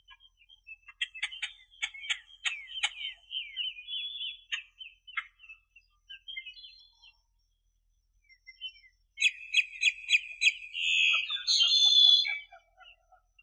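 Small birds singing: quick chirps, clicking notes and trills in two bouts, the second, about nine seconds in, louder and fuller.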